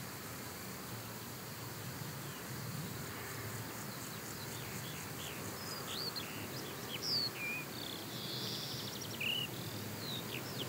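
Outdoor ambience: small birds chirping in short, quick, rising and falling notes, with a rapid trill, over a faint steady low rumble.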